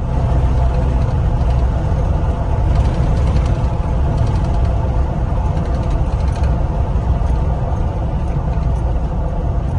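Pickup truck driving at a steady speed, heard from inside the cab: a constant low engine and road rumble.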